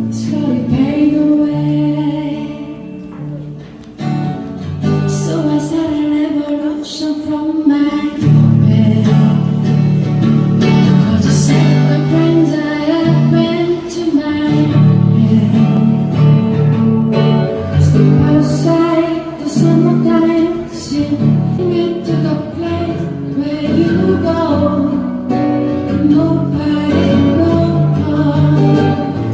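Acoustic guitar with accompaniment playing the instrumental introduction of a song.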